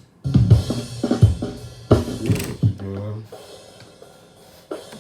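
Multitrack recording of a band playing back through the mixing session: several strong drum kit hits with cymbal wash and a low bass note during the first three seconds, then much quieter.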